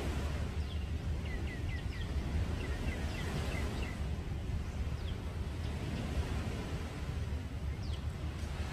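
Birds chirping in quick runs of short falling notes, twice in the first few seconds and now and then after, over a steady low rumble.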